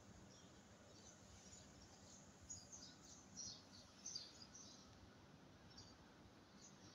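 Faint, high-pitched chirps of small birds, bunched together about halfway through, over a quiet low hum of street ambience.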